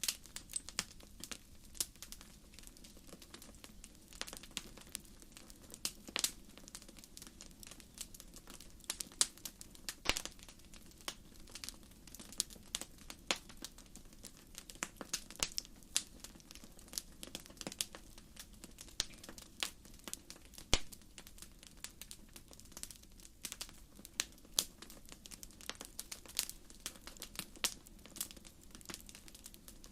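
Wood campfire crackling: logs popping in many irregular sharp cracks, several a second at times, over a steady low background of the burning fire.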